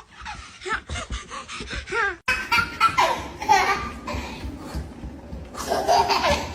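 People laughing in quick repeated bursts. After a sudden break about two seconds in, there is more loud laughing and exclaiming.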